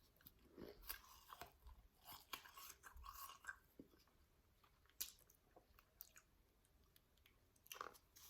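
Chewing a mouthful of soft, powdery shaved ice: a quick run of soft crunches in the first few seconds, a few isolated mouth clicks, and another short crunch near the end.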